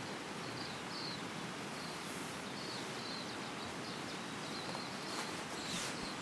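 Steady hiss of rain falling, with a small bird giving short high chirps several times through it.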